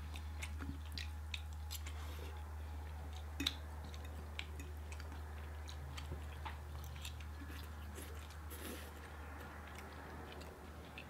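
Close-miked chewing: scattered small wet mouth clicks and crunches as food is eaten, over a steady low hum.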